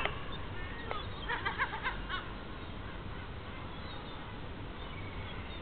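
Birds calling: a quick run of short, pitched calls between one and two seconds in, then a few faint calls over steady low background noise.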